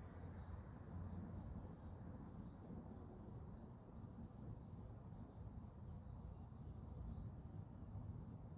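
Faint outdoor ambience: small birds chirping repeatedly in the distance over a steady low rumble.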